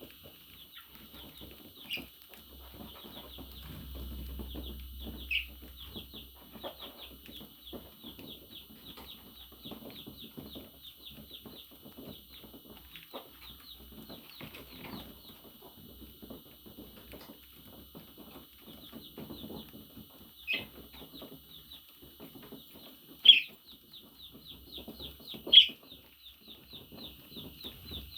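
Budgerigar chatter: a steady run of fast, rhythmic high chirping, broken by about five sharp, louder calls, the loudest two near the end.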